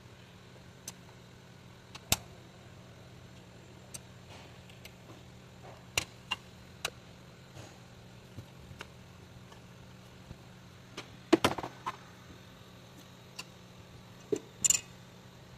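Scattered clicks and knocks of hand tools and engine parts being handled during engine-bay reassembly, while the serpentine belt and alternator go back on. The loudest is a short cluster of knocks about three quarters of the way through, with a sharp double knock near the end, over a faint steady hum.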